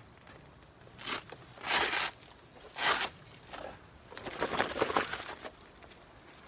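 Footsteps crunching in snow: a few short, uneven crunches about a second apart, then a longer rustling crunch near the end.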